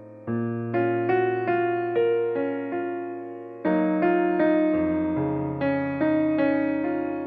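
Background music: an electric piano playing a slow melody over sustained chords, each chord struck and then fading.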